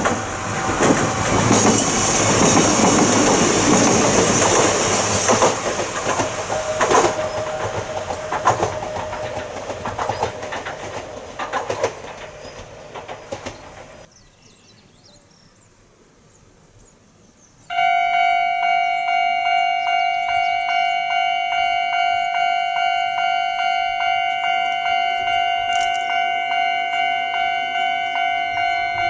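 A Kintetsu electric train passing over a level crossing, its wheels clattering and the noise fading away. After a short near-quiet break about 14 seconds in, a level-crossing alarm starts suddenly: one steady electronic tone, sounding with an even pulse.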